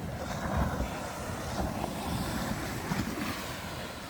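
Wind buffeting the microphone in uneven low gusts, over the wash of surf.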